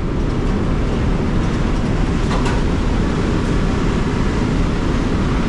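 Steady low rumble of a heavy diesel truck running, with a faint rattle or tick about halfway through.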